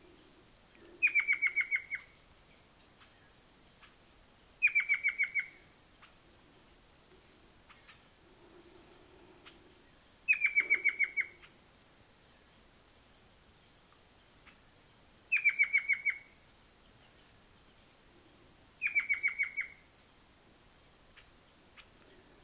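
Agitated calls of a speckle-breasted antpitta and a rufous gnateater: a short rattling trill that drops slightly in pitch, repeated five times about every four seconds, with single sharp high chips between the trills.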